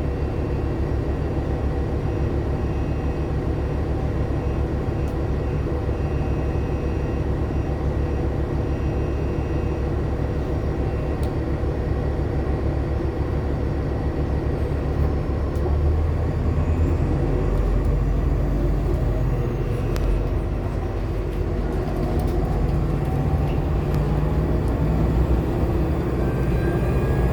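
Interior of a 2014 Nova LFS Artic hybrid bus under way: a steady low rumble from the Cummins ISL9 diesel and road, with a whine that climbs slowly in pitch over the last ten seconds or so as the bus picks up speed.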